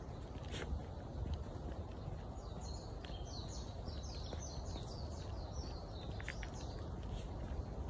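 A songbird singing a run of about a dozen short, high, slurred notes, about three a second, from roughly two and a half seconds in until about six seconds, over a steady low rumble.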